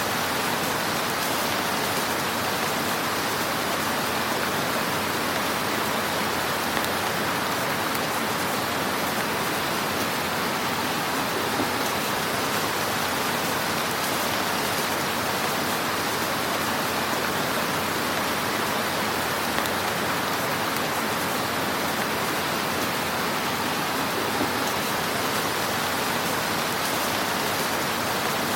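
Wood fire burning in a fireplace: a steady hiss with scattered faint crackles and pops.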